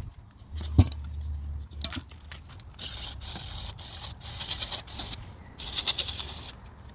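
Spurts of hissing spray, as from an aerosol can of cleaner aimed into engine parts, in two stretches that start about three seconds in. Before them come a few knocks and clicks from parts being handled.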